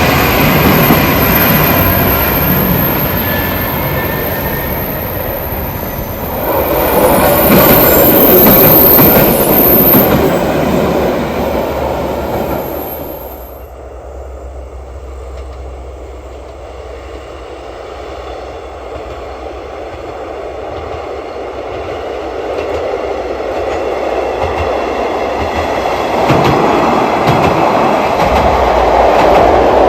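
A train running past on the rails, loudest about a quarter of the way in, then fading away before train noise builds up again near the end.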